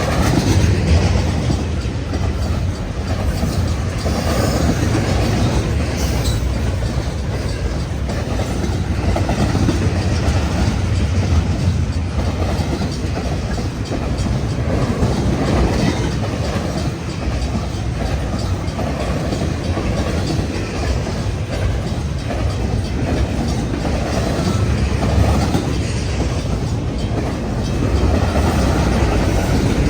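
Freight train cars rolling steadily past a grade crossing: a continuous low rumble of wheels on rail with a repeating clickety-clack over the rail joints.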